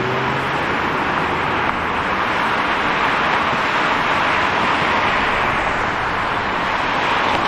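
City street traffic: a continuous steady rush of tyres and engines from passing vehicles.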